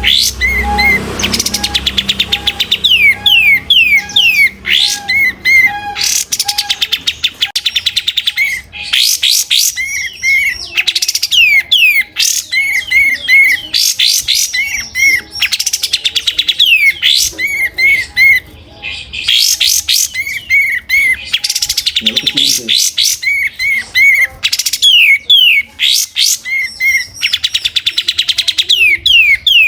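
Kapas tembak songbird singing non-stop: rapid runs of high, sweeping whistled notes and trills, broken by brief pauses.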